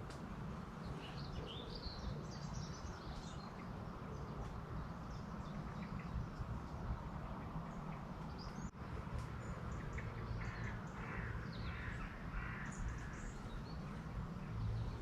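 Birds calling over a steady low outdoor rumble: a few high calls about a second in, then a run of about five repeated lower calls from about ten seconds in.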